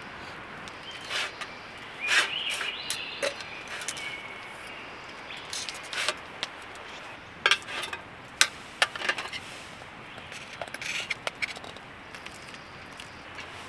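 Scattered clinks, knocks and a brief scrape of metal camp dishes and utensils being handled, over a steady background hiss.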